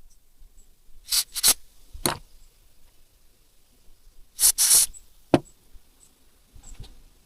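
A handful of sharp knocks and short scraping clatters at irregular intervals: a pair about a second in, another at two seconds, a longer double clatter past the middle, and one sharp knock just after it.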